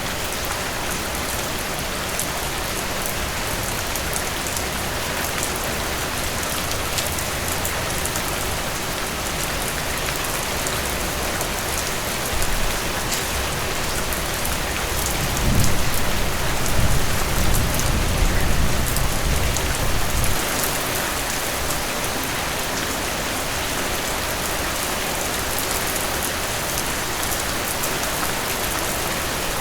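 Heavy rain falling steadily. About halfway through, a roll of thunder rumbles low for around five seconds.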